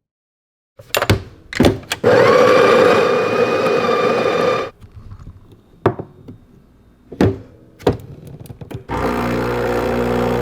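Making coffee with small electric kitchen machines. There are clicks and knocks, then a motor whirs steadily for about three seconds. After a few more knocks, a second machine starts humming with a low drone near the end.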